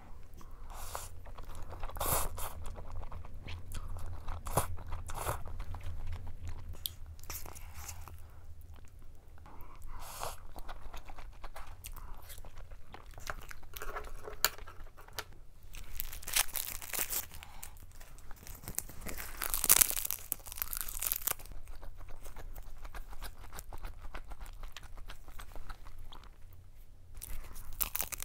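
Close-miked eating sounds: mouthfuls of Carbonara Buldak stir-fried instant noodles being chewed, with short wet clicks throughout and a few louder noisy bursts in the second half. Near the end comes a bite into a seaweed-wrapped triangle kimbap.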